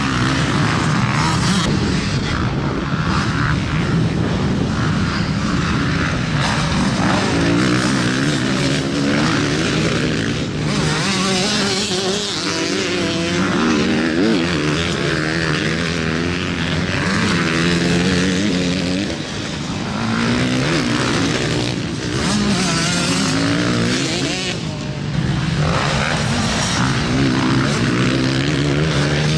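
Several motocross motorcycle engines racing, their pitch rising and falling over and over as they rev through the gears, with overlapping engine notes throughout.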